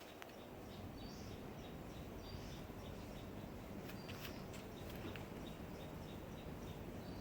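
Outdoor rural ambience: a bird gives short high call notes about every second and a half over a faint steady low rumble, with faint regular ticking in the background.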